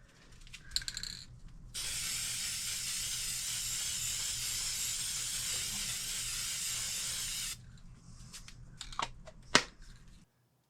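Aerosol spray-paint can spraying in one steady hiss for about six seconds, followed by a few small clicks and knocks.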